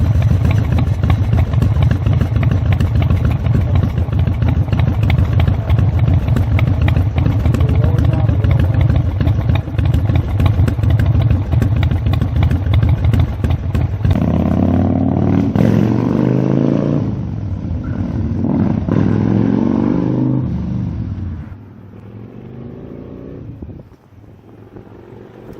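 2006 Big Dog K9's 117 cubic inch S&S V-twin engine running through its upgraded exhaust, loud and steady for about fourteen seconds. It then rises and falls in pitch several times, and about twenty-one seconds in it drops away to a much quieter sound that wavers in pitch.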